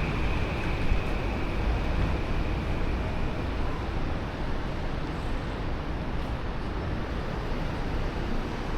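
Steady rumble of city traffic with a constant noise wash. A faint high tone fades out in the first few seconds.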